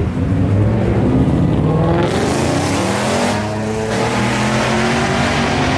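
Car engine revving hard, its pitch climbing over the first two seconds and then held high, with a loud rush of noise about two seconds in.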